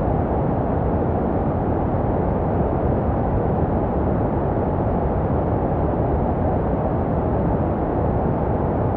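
Steady, unbroken white noise for soothing a baby to sleep. It is deep and muffled, with little high hiss, shaped to resemble the sound heard in the womb.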